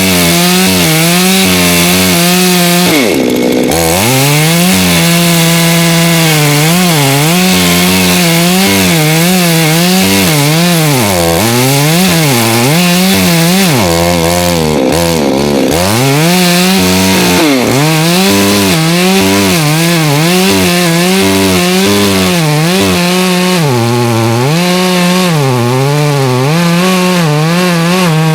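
Two-stroke chainsaw cutting oak firewood, running loud and continuous, its pitch sagging and recovering as the chain bites into the wood. It drops off sharply twice, about three seconds in and again about fifteen seconds in, before revving back up.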